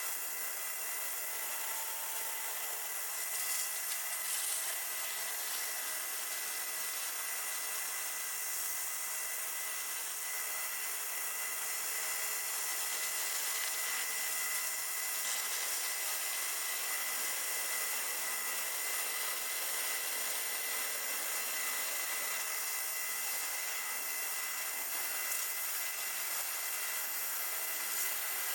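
AitalMAC Orbit A8 CNC stone-working machine running steadily through a cut: a continuous high hiss with a thin steady whine.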